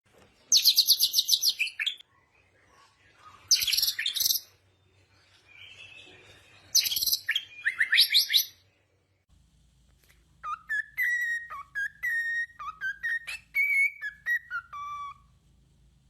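Songbird calls: three bursts of rapid, very high-pitched trills, then, after a change in the background, a quick run of clear whistled notes mixed with sharp clicks.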